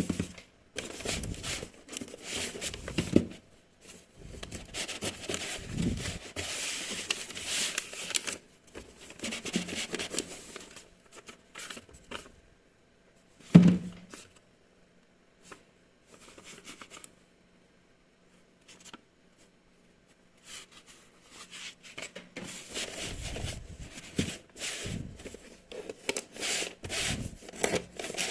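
Hands handling packaging: irregular rubbing, scraping, tearing and crinkling in stops and starts, with one sharp knock about halfway through.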